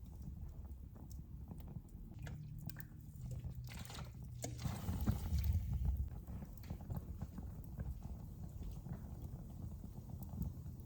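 Wood fire crackling, with scattered small pops and snaps over a low rumble, and a louder hiss about four seconds in that lasts around two seconds.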